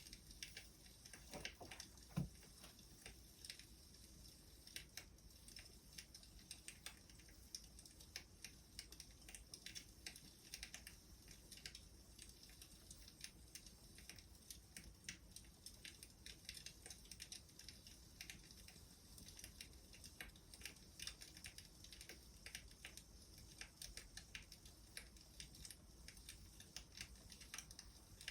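Wood fire crackling: a steady stream of small irregular snaps and pops, with one louder pop about two seconds in.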